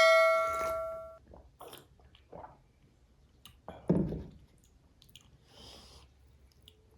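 Tableware ringing out after a clink, a clear ringing tone with several overtones fading away over about a second. Then soft, scattered chewing and handling noises, with a duller knock about four seconds in.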